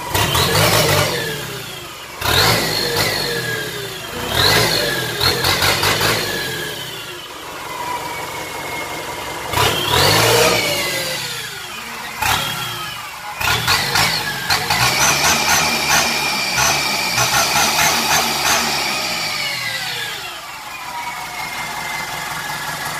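Toyota 15B-T turbo-diesel engine being free-revved: several quick revs in the first half, each climbing and dropping back, then held high for about five seconds before falling back to a steady idle near the end.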